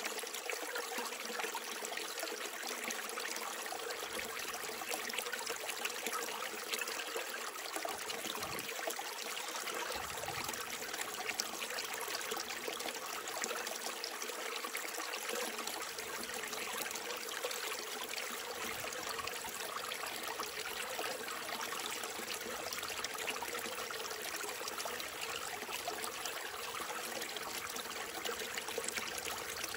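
Small mountain stream trickling and babbling over rocks, a steady, even flow.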